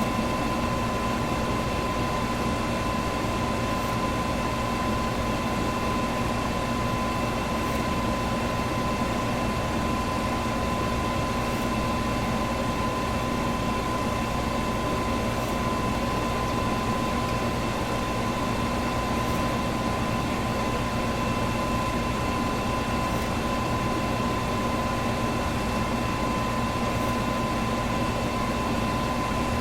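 Electric fan running steadily: an even rush of air with a constant whine in it.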